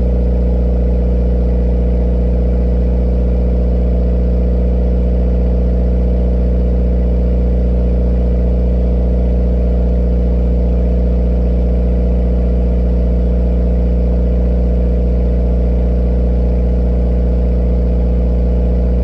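Subaru WRX turbocharged flat-four boxer engine, fitted with an ETS Extreme turbo kit and running on E85, idling steadily in the minute after a cold start. The pitch and level hold constant, with no revving.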